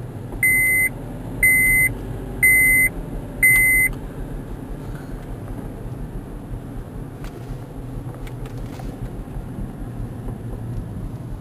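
Electronic warning beeps, one steady high tone about once a second, four times, then stopping. A steady low rumble of a vehicle and rain carries on underneath.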